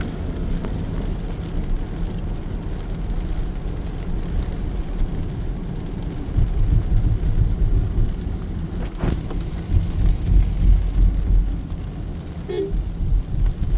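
Steady rain with road traffic passing on wet pavement. Deep low rumbles swell about six seconds in and again around ten seconds, and there is one sharp click.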